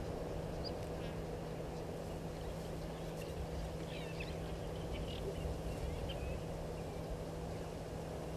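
Steady low hum and outdoor background noise, with faint, short, high bird chirps clustered around the middle.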